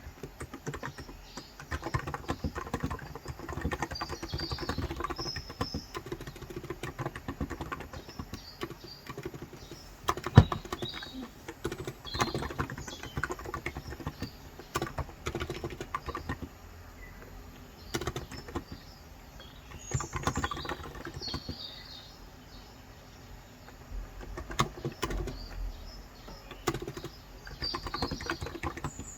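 Typing on a Cox Endeavour electro-capacitive (Topre-style, 35 g) tenkeyless keyboard: keystrokes in quick bursts with short pauses, while birds chirp outside. One louder knock about ten seconds in.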